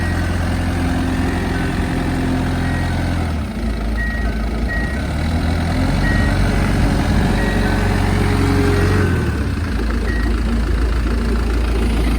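Diesel engine of a TCM FA35D forklift running. The engine note shifts about 3.5 seconds in and shifts back about 9.5 seconds in, matching the hydraulic side-shift being worked from one side to the other. Short high tones sound now and then.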